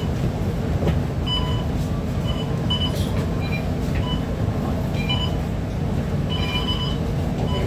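Steady running noise of a Scania K230UB city bus, heard from on board: a constant low engine and road rumble. Brief high-pitched squeaks come and go throughout.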